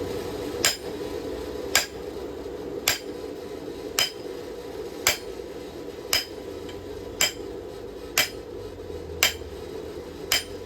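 Hand hammer striking a bar of steel on an anvil in a slow, even rhythm, about one blow a second with a short metallic ring after each, ten blows in all. A steady low hum runs underneath.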